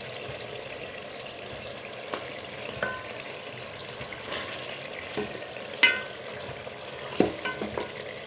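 Chicken curry frying and sizzling in its masala in an aluminium pot while a wooden spoon stirs it, with a few sharp knocks of the spoon against the pot. The loudest knock comes about six seconds in.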